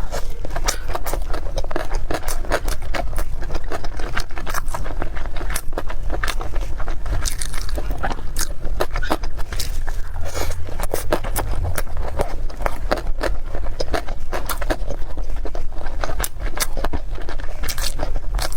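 Close-miked eating and chewing: a dense stream of small wet clicks, smacks and crackles over a steady low rumble.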